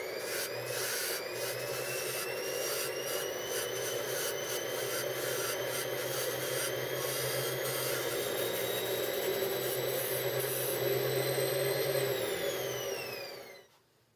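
Washing-machine motor driving a homemade bandsaw's wheels, its whine still rising for the first couple of seconds as it speeds up, then running steady with a light rubbing noise. Near the end the whine falls in pitch and the sound cuts off.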